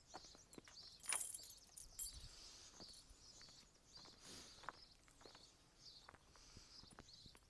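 Faint, irregular footsteps on a path with scattered clicks and crunches, and a louder crackling rustle about a second in.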